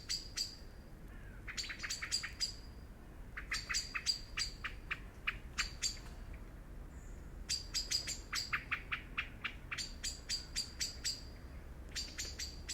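Songbirds chirping: quick runs of sharp, high chirps, several notes a second, repeating every couple of seconds with short pauses between.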